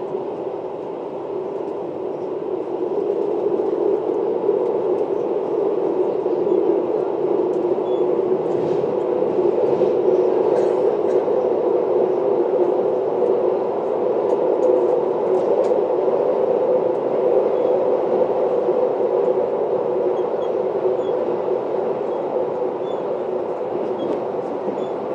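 Electric passenger train running through a tunnel, heard from the driver's cab: a steady rumble that grows louder about three seconds in and then holds.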